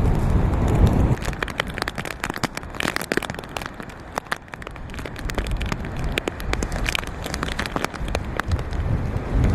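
Hurricane rain falling, with drops striking close to the microphone as many sharp irregular ticks. Wind buffets the microphone in the first second and again right at the end.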